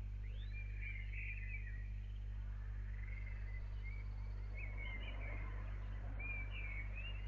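Birds singing, short chirps and warbled phrases repeating, over a steady low hum.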